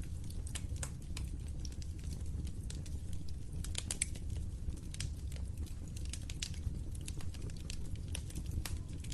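Log fire in a fireplace crackling, with many irregular sharp pops and snaps over a steady low rumble of the flames.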